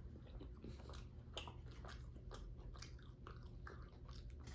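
Close-miked eating sounds: mouth chewing food with soft, irregular wet clicks and smacks, on a low steady background hum.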